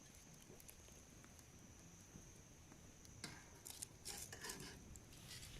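Wood campfire crackling quietly, with scattered sharp pops that bunch together from about three seconds in.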